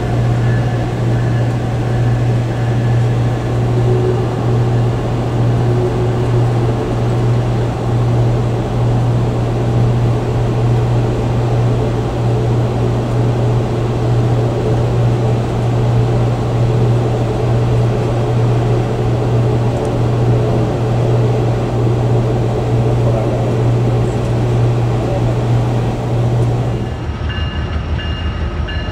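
Steady low hum and rumble heard from inside an Amtrak passenger coach as it moves along the station tracks. About 27 seconds in, the sound cuts abruptly to a different, thinner train recording with a few steady high tones.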